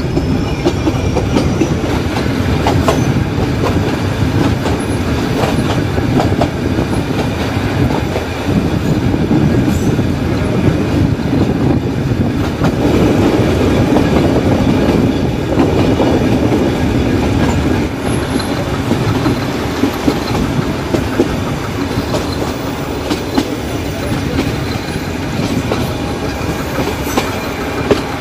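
Nilgiri Mountain Railway metre-gauge passenger train running, with a steady rumble of wheels on track and scattered clicks from rail joints.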